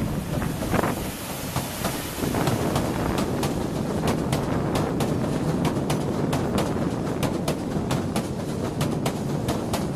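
Severn Lamb diesel train on the 3 ft gauge Southend Pier Railway passing close by: a steady rumble, and from a couple of seconds in its wheels click over the rail joints a few times a second as the carriages go past.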